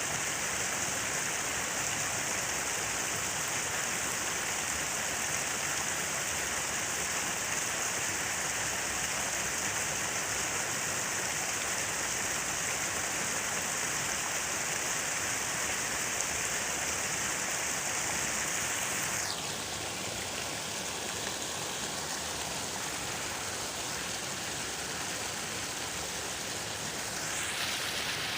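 Falling water rushing steadily, an even hiss. About two-thirds of the way through, its bright top fades quickly and it turns duller and slightly quieter, then brightens again near the end.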